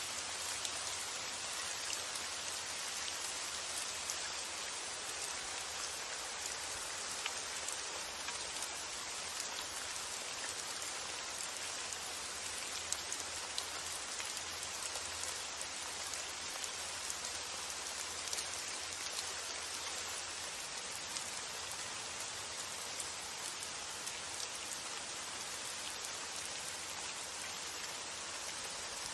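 Steady rainfall with many small drops pattering on a surface, an even hiss throughout.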